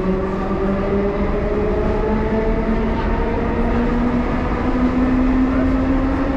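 1938 Tube Stock train running, its electric traction motors whining over the steady rumble of the wheels; the whine rises slowly in pitch as the train picks up speed.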